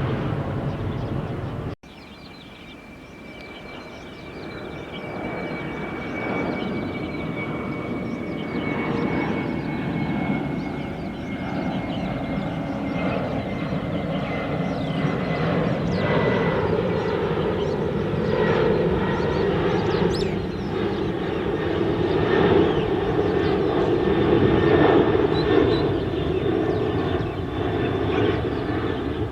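Jet airliner's engines on a takeoff run: a broad rumble that builds and grows louder, with a high whine slowly falling in pitch. The sound cuts off abruptly about two seconds in and starts again quieter.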